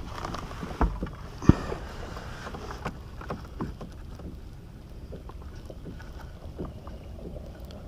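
Scattered small knocks and clicks of gear being handled aboard a fishing kayak, the sharpest about a second and a half in, over a low steady rumble of wind on the microphone.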